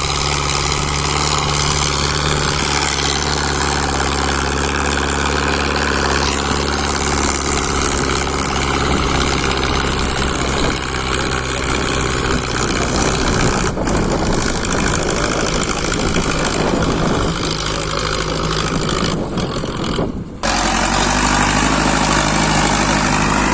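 Powertrac Euro 60 Next tractor's diesel engine running steadily, with a brief break about 20 seconds in before it carries on.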